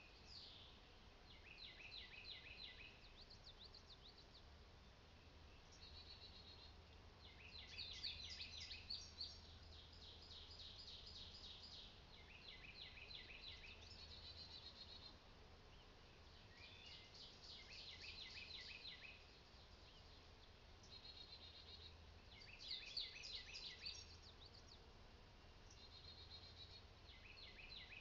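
Faint birdsong: a songbird repeating short trilled, chirping phrases every few seconds, over a low steady rumble.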